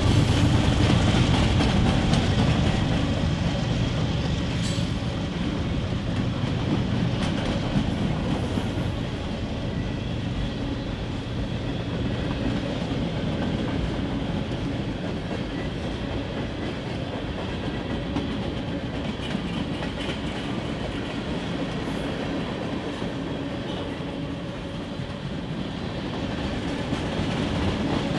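Freight train cars rolling past on the rails, a steady clatter of wheels over the track that eases off slightly after the first few seconds and builds a little again near the end.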